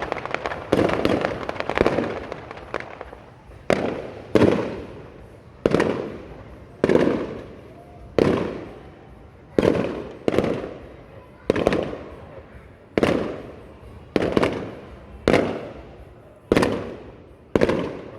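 Fireworks display: aerial shells bursting in quick succession, each sharp bang trailing off in a rolling echo. The bursts overlap thickly for the first few seconds, then settle to about one bang a second.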